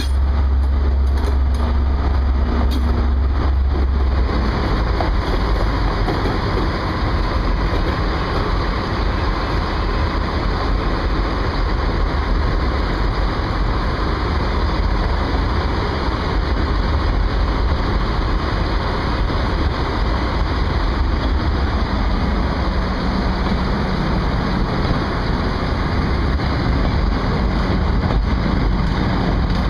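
Diesel train running steadily, with a heavy low engine rumble for the first four seconds that then gives way to a broader, even running noise.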